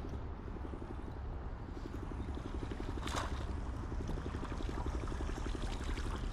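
Fishing reel being cranked to bring in a hooked bass, a fast even ticking over low wind and water rumble, with one short sharp knock about three seconds in.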